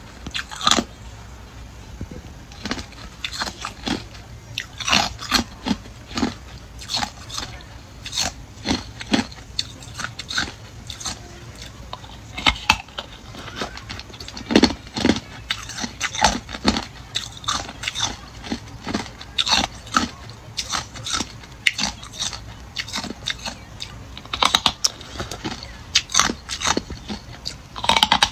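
Ice being bitten and chewed close to the microphone: a long run of sharp, irregular crunches, often several a second.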